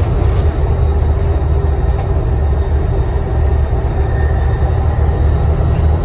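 Volvo B7TL double-decker bus's six-cylinder diesel engine running under way, heard on board: a steady low drone with a thin, high turbocharger whistle over it.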